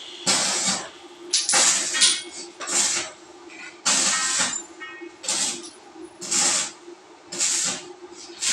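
Power sprayer spraying in short hissing bursts, about one a second, each about half a second long, over the steady hum of its pump motor.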